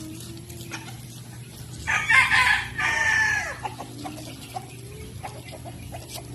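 A rooster crowing once, starting about two seconds in and lasting about a second and a half, its pitch falling at the end, over scattered clucking of chickens.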